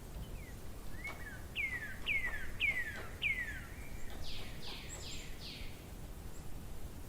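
A songbird singing: about five clear whistled notes, each sliding downward, then a quicker run of about four harsher descending notes. A steady low outdoor rumble lies underneath.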